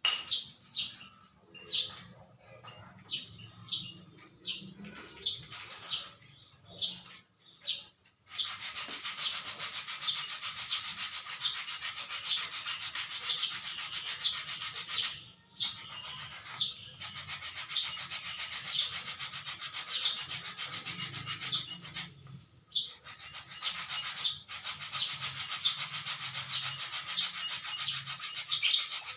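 Hand sanding in rhythmic back-and-forth strokes, about one and a half strokes a second. The strokes are separate at first, then run together into steady scrubbing from about eight seconds in.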